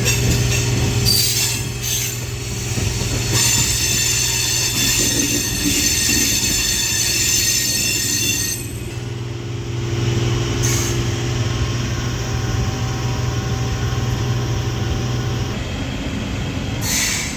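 Electric MEMU train running on the rails with a steady low electric hum. From about three seconds in until about nine seconds, the wheels squeal with a high, sustained screech.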